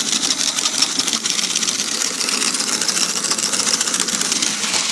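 Bachmann HO scale model locomotive running on its track: the small electric motor whirring and the wheels clattering in a steady, rapid run of ticks.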